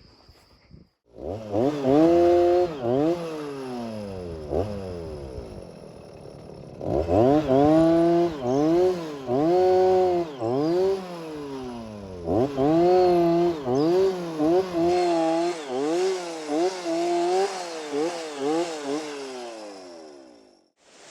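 Small engine-powered drill boring holes through fence posts for the wire. It revs, then drops in pitch again and again as it bites under load, in three spells with short lulls between them.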